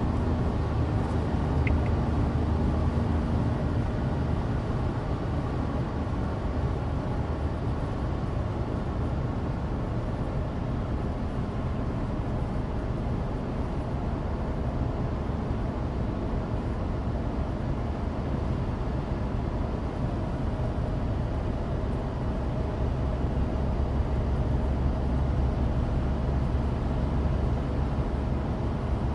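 Sound inside the cabin of a 2016 Suzuki Alto Turbo RS (HA36S) on the move. Its small turbocharged three-cylinder engine runs with a steady low drone under constant road and studless-tyre noise.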